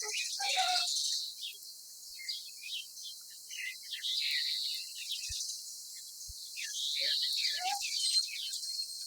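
Wild birds chirping, with many short calls one after another and a steady high hiss underneath.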